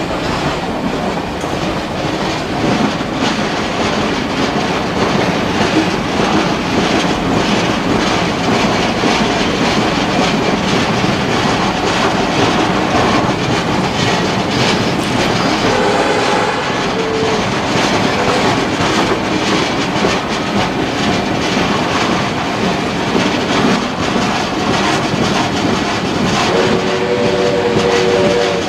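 Heritage steam train running, heard from an open carriage window: a loud, steady rumble and clickety-clack of the carriage wheels on the rails. Brief pitched tones sound about halfway through, and a blast of several notes together sounds from the locomotive near the end.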